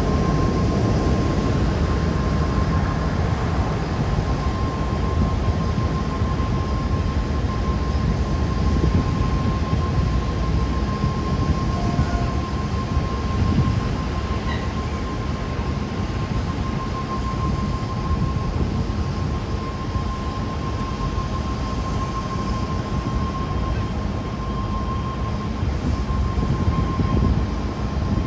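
Jet airliner running on the ground: a steady rumble with a constant high whine, with no rise or fall in level.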